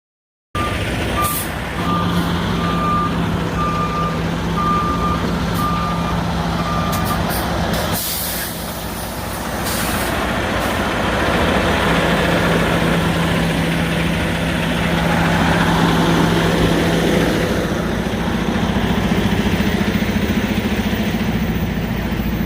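Heavy truck's diesel engine running, with a reversing alarm beeping steadily for the first several seconds and short air-brake hisses around the middle.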